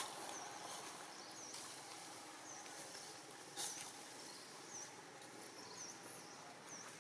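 Faint outdoor ambience: a small bird gives short, repeated chirps about once a second over a steady high hiss. Two sharp clicks break in, the louder one a little past halfway.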